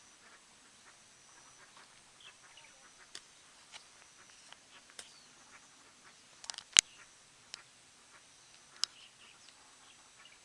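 Scattered short, sharp bird calls, a few at a time, from a flock on a hillside. About two-thirds of the way through comes one loud click, the loudest sound here.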